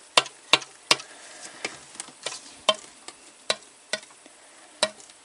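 Small petrol transfer pump being tried out, making a run of sharp clicks at an uneven pace, about one or two a second.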